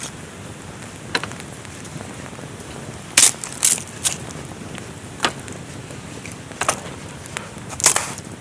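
Steady rain hiss with scattered sharp cracks and snaps, the loudest a little after three seconds in and near the end.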